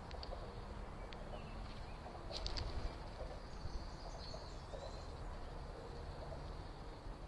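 Outdoor background rumble with a few short, faint bird chirps, a quick cluster of them about two and a half seconds in and a brief gliding call a couple of seconds later.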